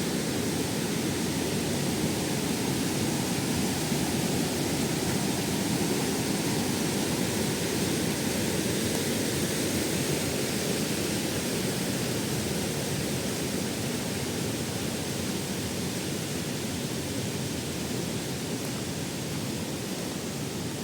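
Waterfall rushing steadily, a continuous deep wash of falling water, easing a little toward the end.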